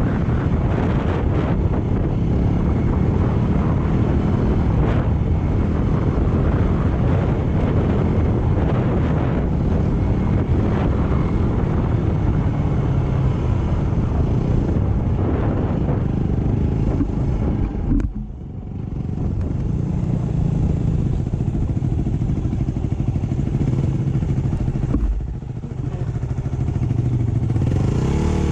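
Motorcycle engine running steadily while being ridden, with a dense low rumble. A sharp click comes about 18 seconds in, and the sound drops off briefly before picking up again. It eases off once more for a moment near 25 seconds.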